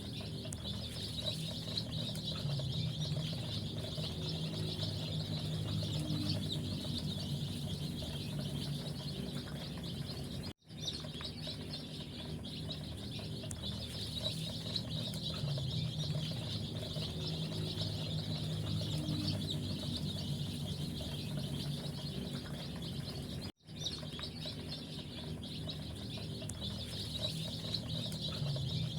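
A flock of young chicks peeping continuously, a dense chorus of high chirps over a low steady hum. The sound cuts out completely for an instant twice.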